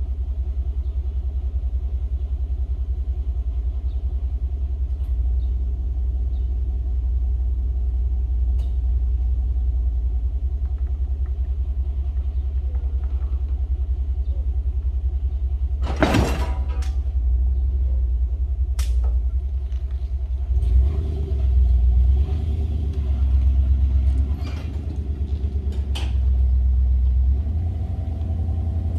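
An engine running steadily at low revs, with one sharp bang about halfway through and a few lighter knocks after it. Later the engine note swells and drops several times.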